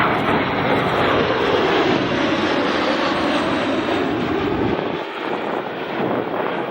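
Jet aircraft passing low in an airshow flyby: a loud, steady rushing jet roar, loudest at the start, that drops slightly in pitch and eases about five seconds in as the jets move away.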